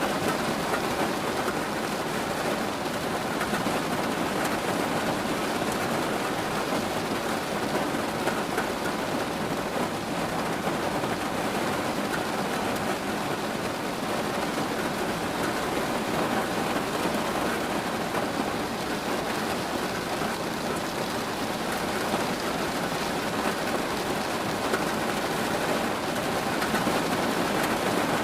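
Steady rain falling, an even, dense patter of drops.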